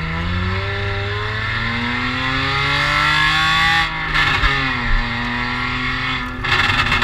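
Car engine accelerating hard, its pitch climbing for about four seconds, then dropping sharply at an upshift or lift before pulling again at a lower pitch.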